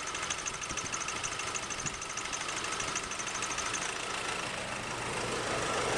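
Nissan Navara D40's 2.5 common-rail turbo diesel idling, with a rapid, regular ticking clatter that fades out about four seconds in.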